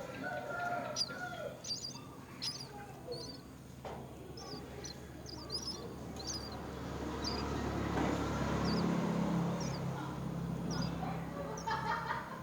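Birds chirping: short, high chirps repeated about once or twice a second, with a few lower calls in the first second or so. Underneath is a low steady rumble that swells about eight seconds in.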